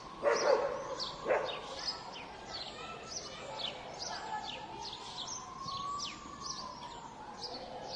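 Small birds chirping over and over, short downward-sweeping chirps about twice a second, over city park background noise. Two louder short sounds come in the first second and a half, and a faint tone slowly rises and falls in pitch underneath.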